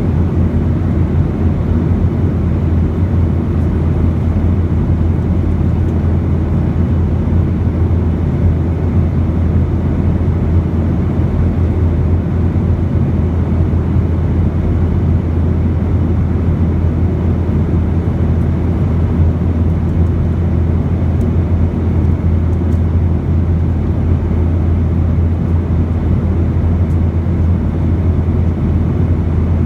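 Steady in-flight cabin drone of a Boeing 737: a deep engine and airflow rumble with a hiss above it.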